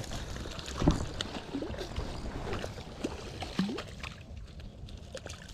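Water splashing and sloshing as a hooked channel catfish is fought and reeled toward the bank, with scattered sharp clicks and knocks; it dies down about four seconds in.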